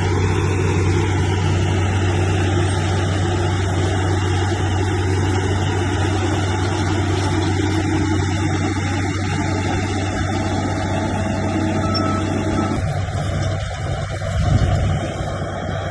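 Heavy diesel engine of earthmoving machinery running steadily under work. About three-quarters of the way through the sound changes, and a brief louder surge follows near the end.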